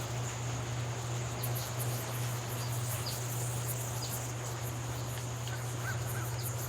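Riverside ambience: a steady wash of flowing river water under a high, steady insect drone, with several short bird chirps and a few faint crow caws near the end.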